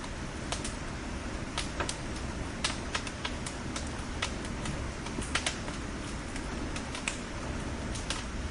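Bonfire burning: wood logs crackling with irregular sharp pops, a few every second, over a steady hiss and low rumble of the flames.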